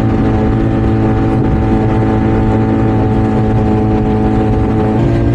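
Small outboard motor running steadily at speed, driving a small fiberglass boat on a fast run. The engine note shifts slightly about five seconds in.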